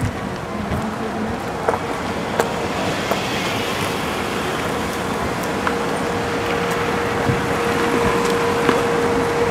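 A motor vehicle running outdoors: a steady noise that swells a little, with a steady hum coming in about halfway through and a few light clicks.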